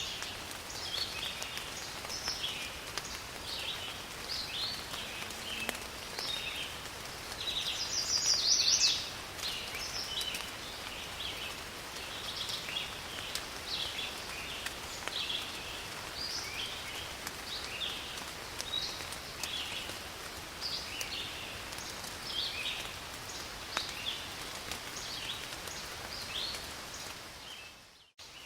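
Steady rain falling in a forest, with birds chirping over it throughout and one louder, higher call about eight seconds in. The sound drops out briefly near the end.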